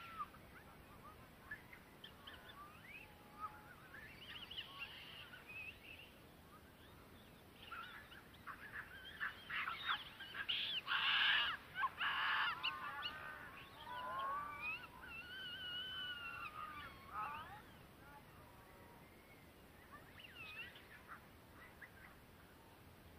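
Wild birds calling: scattered honking and gliding calls that come in a busy flurry about halfway through, then thin out.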